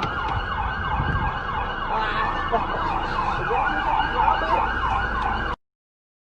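Emergency vehicle siren in a fast, repeating yelp, over a low rumble of road noise. It cuts off suddenly about five and a half seconds in.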